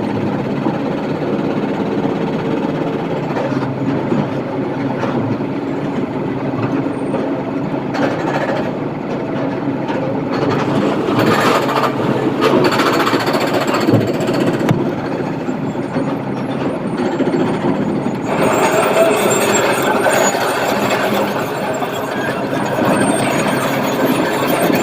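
Heavy diesel machinery running steadily: a SANY excavator working and loading a dump truck, with a few knocks in the middle and a harsher, brighter stretch from about three-quarters in.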